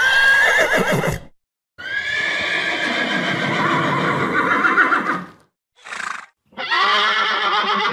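Horse whinnying: a short neigh at the start, then a long quavering whinny, a short noisy burst, and another quavering whinny near the end.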